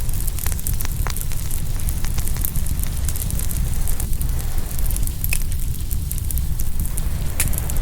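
Open wood fire crackling, with scattered sharp pops, the strongest about a second in, just past five seconds and near the end, over a steady low rumble.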